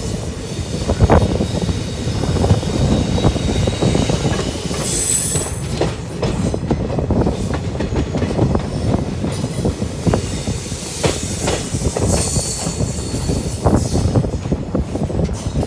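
Passenger coaches of a moving express train, heard from an open door: steady wheel-on-rail rumble with quick clicks over rail joints, and a high wheel squeal on the curve about five seconds in and again from about eleven to thirteen seconds in.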